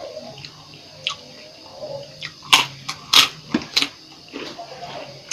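Close-miked eating of a bamboo-shoot vegetable dish: wet mouth sounds and chewing, with three or four sharp smacks or clicks about halfway through.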